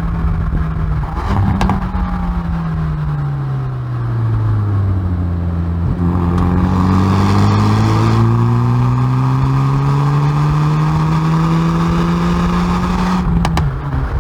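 Exhaust of a Hyundai i30N Performance's turbocharged 2.0-litre four-cylinder at track pace. The revs fall for a few seconds. From about six seconds in it pulls loudly, revs climbing steadily for about seven seconds in one gear. Near the end come a few sharp pops and a sudden drop in revs.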